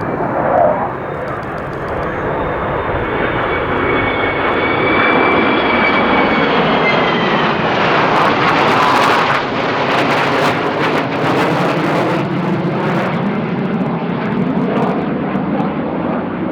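Jet aircraft flying past at an airshow: a loud roar that swells through the middle and eases off near the end, with a high whine that slides down in pitch as it passes.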